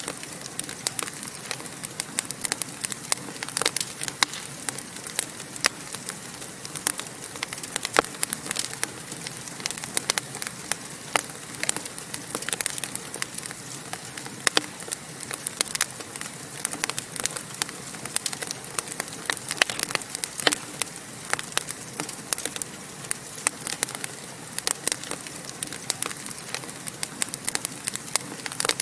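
Wood fire burning in a fireplace, crackling and popping in many irregular sharp snaps over a steady hiss.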